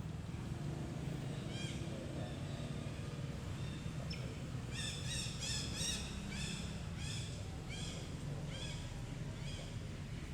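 A run of short, high-pitched arched calls repeated about twice a second over a low steady hum. Each call rises and falls, with one call before the run.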